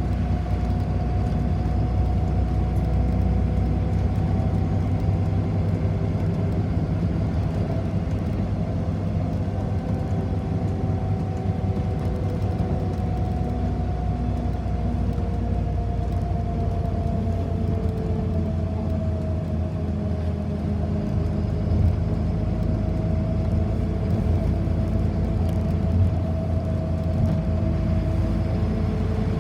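City bus in motion, heard from inside the passenger cabin: a steady low rumble with a faint whine that drifts slowly up and down in pitch.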